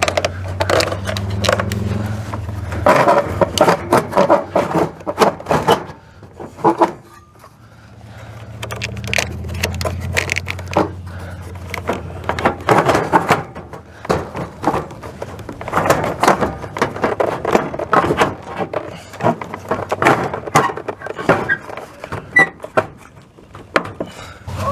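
Clunks, knocks and metal scraping as a Suburban RV furnace is worked loose and slid out of its sheet-metal case, with a low hum in two stretches.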